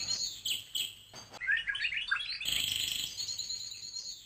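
Small songbirds chirping and twittering in a dense run of quick, high chirps. The chirping thins out about a second in and comes back thickly a little past the middle.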